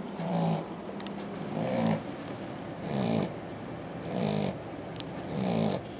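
Australian Shepherd puppy snoring in its sleep: five short, buzzing snores, evenly spaced about one every 1.2 to 1.3 seconds.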